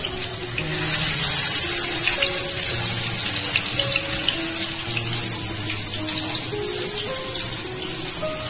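Chicken chapli kababs shallow-frying in hot oil: a steady sizzling hiss that grows louder about a second in, as a fresh patty goes into the pan. Soft background music plays underneath.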